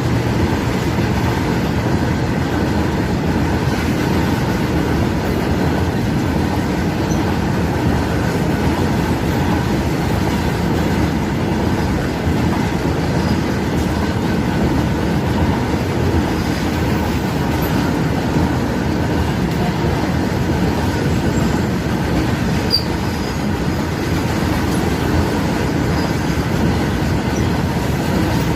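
Indian Railways diesel freight train running past, a steady, unbroken rumble of wheels on rail with a faint steady high tone throughout.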